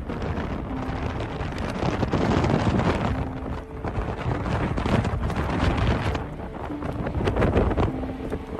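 Strong wind buffeting the microphone, a heavy, gusting rumble that surges and eases, in the winds around a violent tornado.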